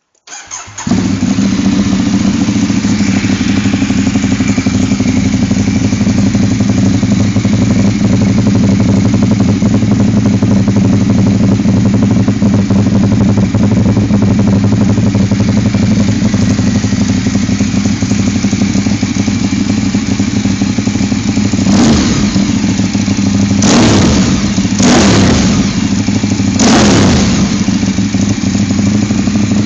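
Ducati 848 Evo's L-twin engine breathing through a full Termignoni exhaust system: it fires up about half a second in and settles into a steady idle. Near the end the throttle is blipped four times, each a quick rise and fall in revs.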